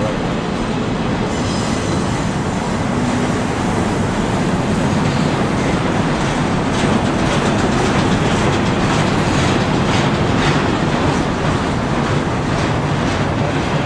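Double-stack intermodal freight cars rolling past: a loud, steady rumble of steel wheels on rail, with a run of clicks from the wheels through the middle stretch.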